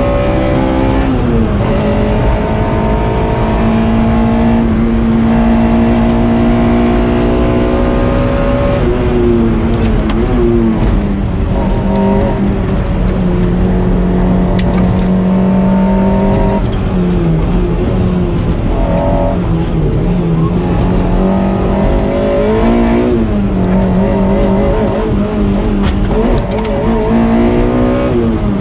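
Toyota MR-S's swapped-in 2ZZ-GE four-cylinder engine running hard at high revs, heard from inside the car. The pitch holds high for long stretches and keeps dropping and climbing again as the driver lifts off, brakes and changes gear between corners.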